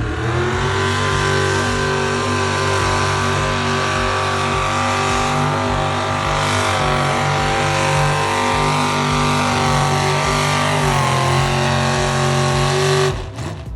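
A pulling vehicle's engine running flat out under load on a full pull down the track. It holds a steady high pitch, sags slightly near the end, then cuts off abruptly.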